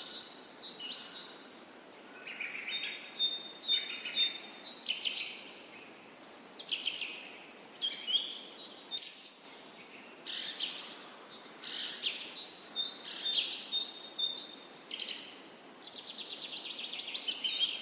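Birds chirping and calling: a run of short chirps and sweeping whistles, with a fast trill near the end.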